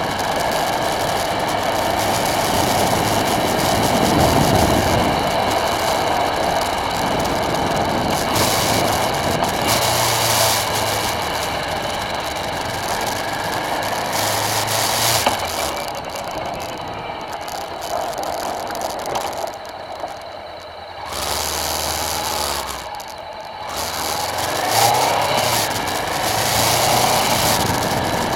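Strong gusty wind, a loud noisy roar that swells and eases, dropping off briefly twice in the second half.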